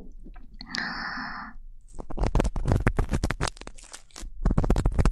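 Ear-cleaning ASMR: an ear pick scraping and rubbing against a microphone's ear, making close, rapid crackly scratches and crunches in clusters from about two seconds in. A brief steady hiss comes just before a second in.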